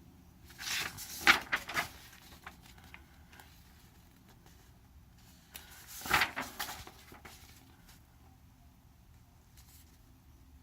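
Two short bouts of clicks and knocks from things being handled, the first about half a second in and the second about six seconds in.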